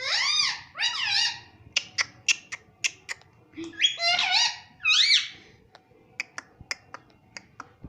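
Indian ringneck parrot giving several high, arching, sliding calls, with a run of short sharp clicks between and after them.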